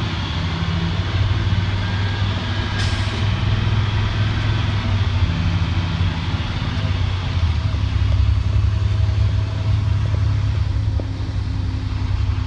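2007 IC CE school bus running, with a steady low hum and the annoying buzzing sound heard inside the bus. A short hiss sounds about three seconds in.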